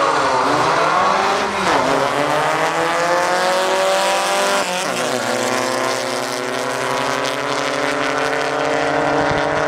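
Drag-racing Volkswagen Beetle engine running hard at full throttle. Its pitch wavers near the start, drops sharply about five seconds in, then climbs steadily.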